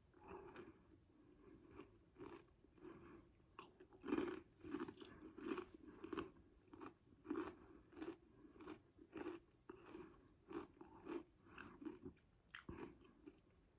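A person chewing Doritos 3D Crunch Spicy Ranch chips, a steady run of crisp crunches about two a second that is loudest from about four seconds in and tails off near the end.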